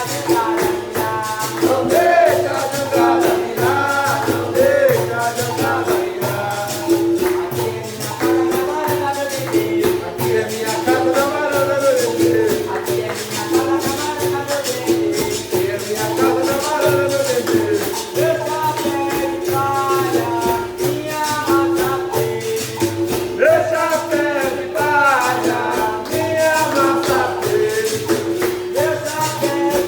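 Capoeira music: a steady percussion rhythm with jingling tambourine strokes, under a voice singing a capoeira song.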